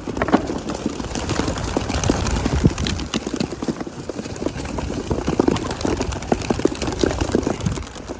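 Rapid, irregular clattering of young pigeons flapping and scrambling out of an opened crate, wings clapping, for several seconds.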